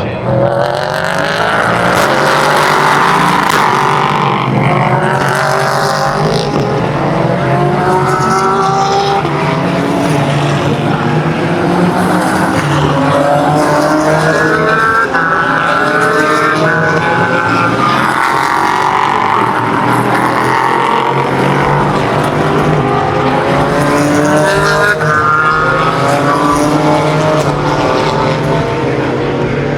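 Sports-prototype and GT race car engines at full throttle, their revs climbing and dropping again and again through gear changes as cars pass on the circuit.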